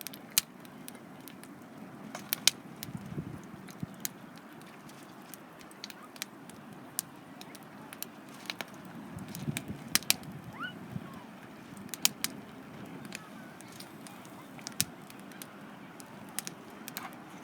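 Wood campfire crackling, with irregular sharp pops and snaps over a low steady hiss of the flames.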